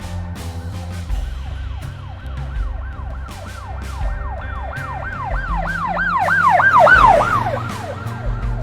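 Police car siren on a fast yelp: quick rising-and-falling sweeps about four a second, growing louder to a peak about seven seconds in and then fading away, over background music with a beat.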